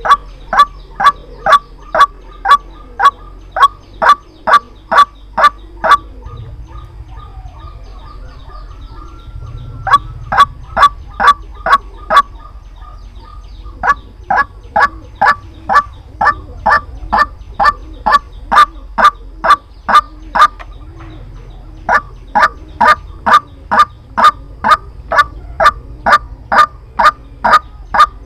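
White-breasted waterhen calling: a fast, even series of loud notes, about two a second, in bouts broken by short pauses. It is a lure recording of the call, of the kind played to trap the bird.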